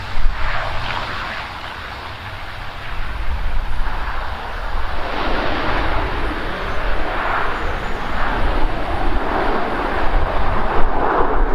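Jet airliner engines with wind buffeting the microphone; the engine noise grows louder about five seconds in.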